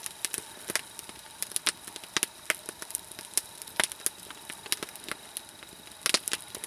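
Wood campfire crackling, with irregular sharp pops and snaps scattered through.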